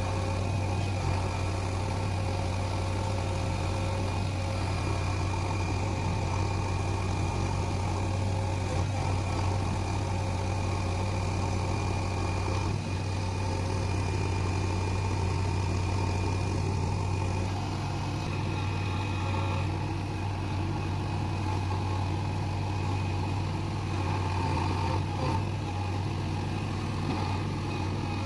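Backhoe loader's diesel engine running steadily at an even pitch.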